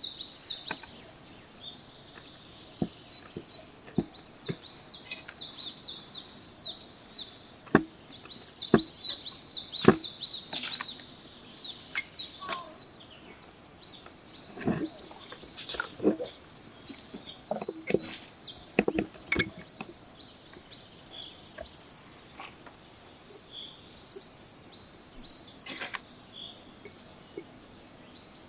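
Small birds chirping continuously in quick runs of short, sliding notes. Over them come scattered sharp knocks and taps, the loudest sounds here, as stuffed eggplants are packed into a glass jar on a wooden table. The knocks are busiest about a third and halfway through.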